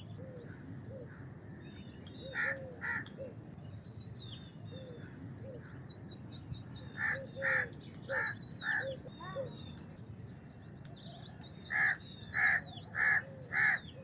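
House crows cawing: short harsh caws come in pairs and scattered singles, then a quick run of about five near the end. Small birds twitter high and constantly underneath.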